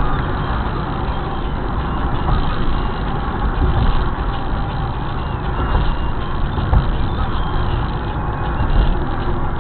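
Steady rumble of road traffic, with heavy engine and tyre noise from trucks and other vehicles.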